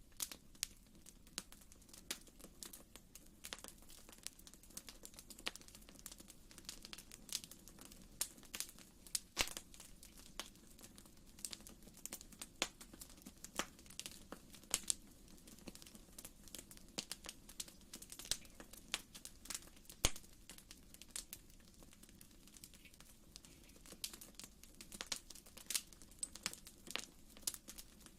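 Wood fire in a fireplace crackling: irregular sharp pops and snaps, several a second, over a soft steady low rumble of the flames.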